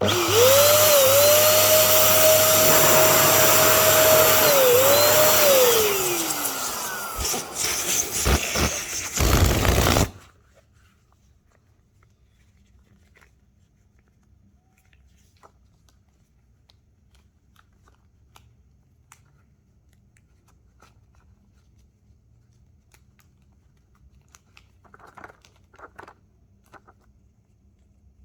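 Electric balloon inflator pump running with a steady whine for about six seconds, then switched off, its pitch falling as the motor spins down. A few short blasts follow, then only faint handling clicks and rustles.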